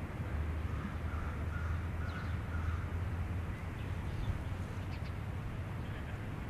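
A bird calling about four times in short, harsh calls, over a steady low background rumble.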